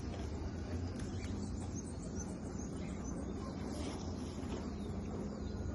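Steady outdoor background noise with a low rumble and faint high bird chirps.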